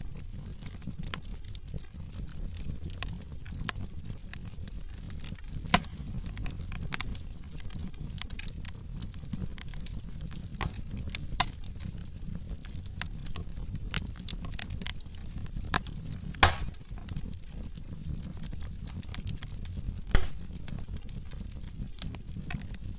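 Wood fire burning in a fireplace: logs crackling with frequent small snaps over a soft steady rush, and a few louder pops, the biggest about sixteen and twenty seconds in.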